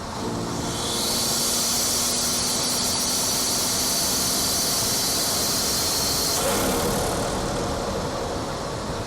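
BMW 440i's B58 turbocharged inline-six under throttle, heard at a front-mount intake: a loud hissing intake rush and turbo whoosh starts about a second in, holds for some five seconds over the steady engine note, then cuts off suddenly.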